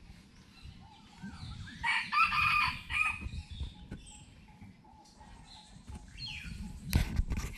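A loud, rough crowing bird call about two seconds in, lasting about a second and a half, with fainter chirps after it. Near the end come two sharp knocks close to the microphone.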